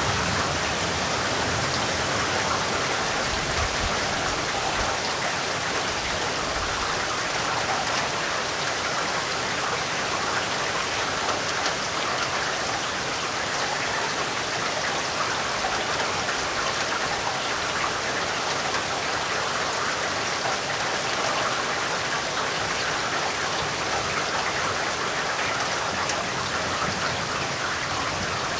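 Steady, dense rainfall pattering on surfaces. A low rumble dies away in the first few seconds.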